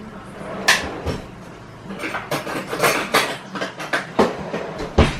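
Dishes and cutlery being handled: a sharp clink about a second in, a run of quick clinks and knocks in the middle, and a louder knock near the end.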